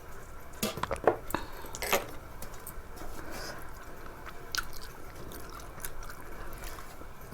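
Close-up eating sounds: wet chewing and mouth smacking, with several sharp clicks in the first two seconds and lighter ticks after.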